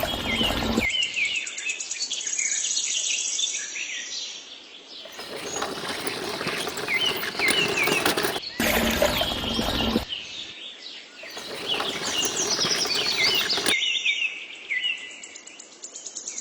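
Small birds chirping over and over, interrupted by stretches of loud, even rushing noise: one at the start, one from about five to ten seconds in, and another around twelve to fourteen seconds.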